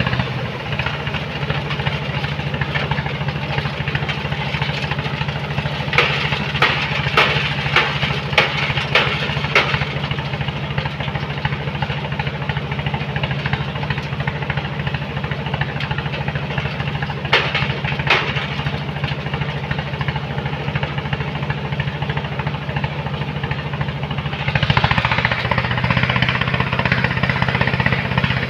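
Engine of a sand-loading machine running steadily, with a run of sharp clanks about six seconds in and two more later on. It grows louder and harsher a few seconds before the end, as if taking load.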